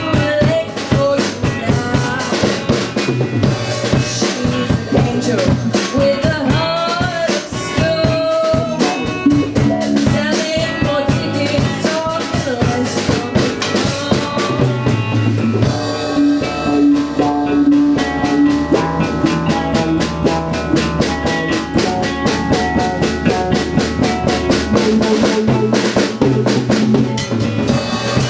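Rock band playing an original song, with a drum kit driving a steady, busy beat of kick, snare and rimshots under pitched bass and guitar parts.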